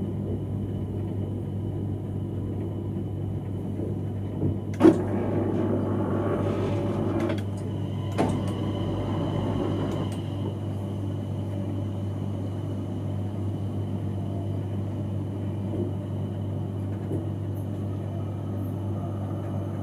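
Cab of an X31 electric passenger train running along the line: a steady low hum and rumble. About five seconds in a sharp knock is followed by a couple of seconds of louder rattling, and a second knock about three seconds later brings another stretch of rattling, as the wheels cross rail joints or points.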